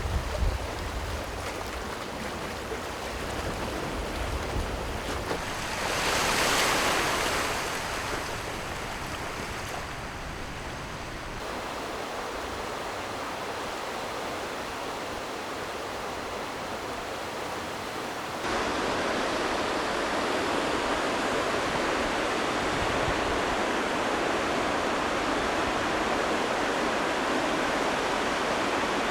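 Sea waves washing and breaking, with some wind; one wave swells up about six seconds in. The sound changes abruptly twice, around eleven and eighteen seconds in, the second time to a denser, steadier rush.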